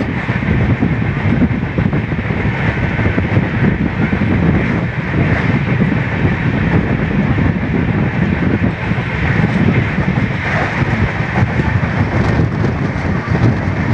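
Train running across a steel bridge, heard from aboard: a steady, loud rumble of the wheels on the rails.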